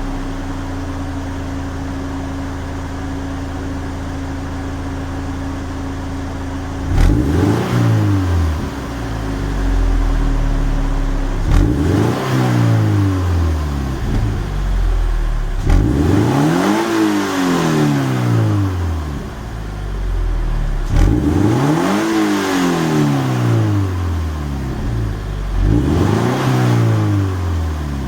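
Toyota 86 (ZN6) 2.0 L flat-four with a 5ZIGEN SP aftermarket muffler, idling steadily with a low exhaust note for about seven seconds, then revved and allowed to fall back five times in a row, each rev rising and falling in pitch.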